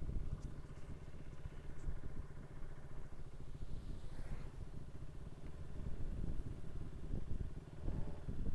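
Motorcycle engine running during a ride, with a low, uneven rumble of wind on the microphone.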